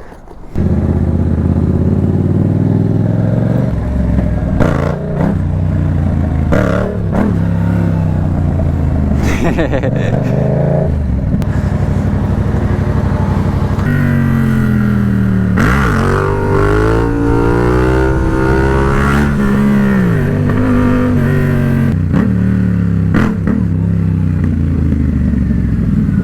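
Motorcycle engine under way, revving up and dropping back again and again as it shifts through the gears, its pitch climbing and falling with each pull. It comes in suddenly about half a second in.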